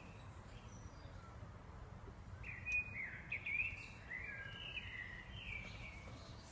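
A songbird singing a warbling phrase of several quick notes, starting about two and a half seconds in, over a steady low background rumble.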